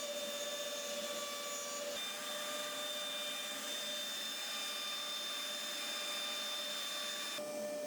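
CNC router spindle running as it rough-carves a wooden panel: a steady whine over a hiss of cutting, its tone shifting slightly about two seconds in and again near the end.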